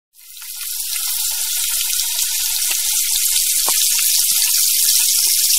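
Hot oil sizzling and crackling as food fries, a dense hiss with small pops; it fades in over about a second and cuts off abruptly at the end.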